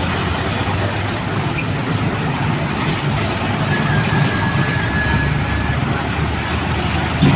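Steady low rumble of heavy truck engines running, with roadway traffic noise and a short knock near the end.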